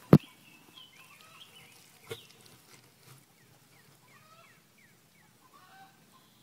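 A sharp click at the very start and a softer knock about two seconds in, over faint chirping birds, with a run of short, quickly repeated falling chirps a few seconds in.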